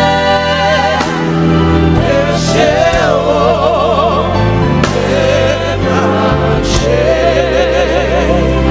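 Gospel worship song: voices singing with wide vibrato over instrumental backing, with a steady bass line that moves to a new note every second or so.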